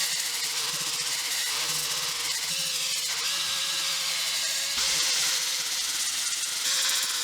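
A woodworking power tool or machine running with a steady high hiss over a low hum, briefly louder about five seconds in and again near the end.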